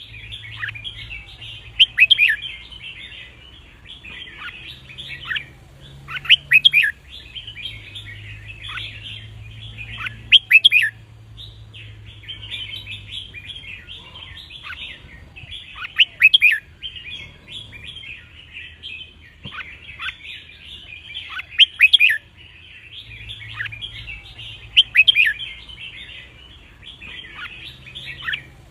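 Red-whiskered bulbul song: loud, short phrases of quick, sharp falling notes come every few seconds over a steady twittering chatter.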